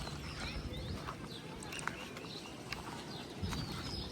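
Several birds chirping, with many short quick calls overlapping, over a steady low rumble and a few sharp clicks.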